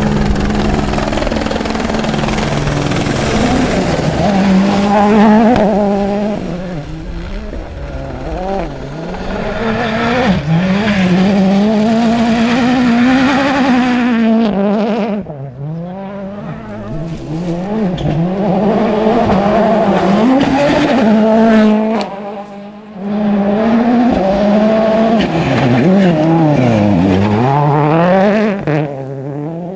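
2014 World Rally Cars, 1.6-litre turbocharged four-cylinders, driven hard on a gravel rally stage. The engine note rises and falls again and again through gear changes and lifts. The sound drops sharply about halfway through and again about three-quarters of the way in, then picks up.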